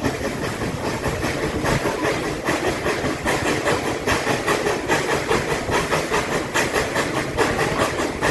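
Steam locomotive working under way: a rhythmic exhaust chuff, about two to three beats a second, over a steady steam hiss.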